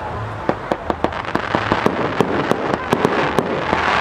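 Fireworks going off: a quick, irregular run of sharp bangs and cracks, about four or five a second, starting about half a second in over a rising crackling hiss.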